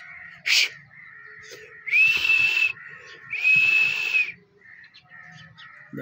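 A bird gives two loud, long whistled calls, about two seconds in and again a second later. Each sweeps up quickly and then holds steady at a high pitch, and the second is a little longer.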